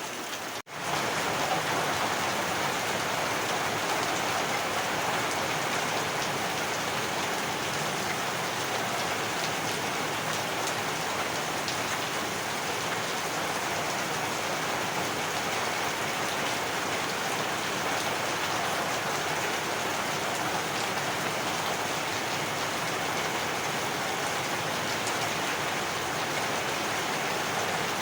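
Heavy rain falling steadily. About half a second in, it cuts out for a split second and comes back slightly louder.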